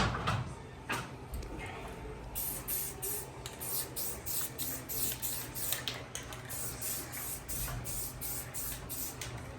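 Spray paint hissing in many short bursts, starting about two seconds in: light coats of paint being sprayed over a lace stencil.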